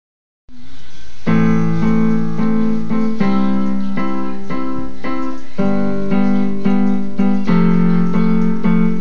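Piano playing a song intro of repeated block chords, about two a second, after a moment of silence at the start.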